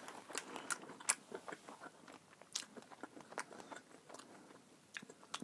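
A person chewing a bite of boiled garlic sausage close to the microphone: irregular small mouth clicks and squelches, a few louder ones now and then.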